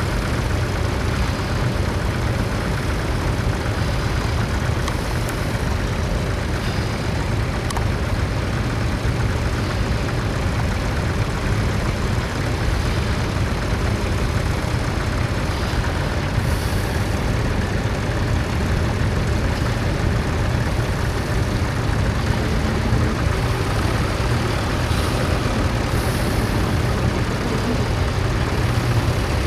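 Vintage tractor engine running steadily with a constant low drone.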